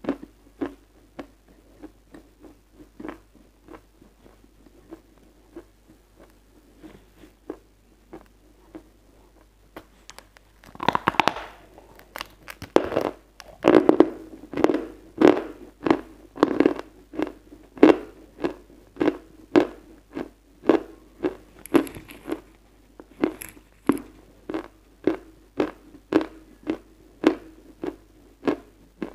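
A person chewing crunchy chalk close to lapel microphones, in steady strokes about one and a half times a second. The chewing is soft at first. About eleven seconds in, a fresh bite crunches loudly, and after that the chewing crunches louder.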